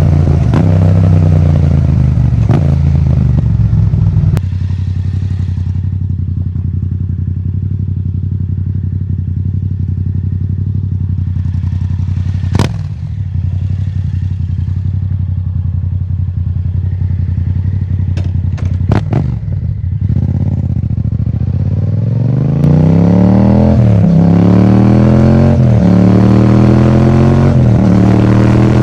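Yamaha MT-07 parallel-twin engine through an Akrapovic titanium exhaust. It runs at steady revs, then drops suddenly to a steady low idle for about fifteen seconds, with a couple of sharp clicks. It then pulls away with rising revs and three upshifts near the end.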